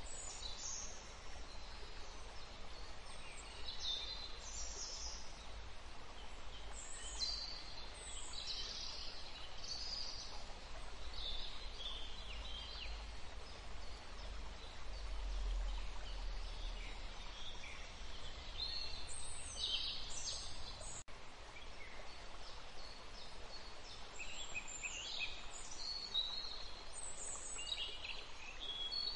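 Small birds chirping in scattered bursts of short, high calls over a low steady background hum.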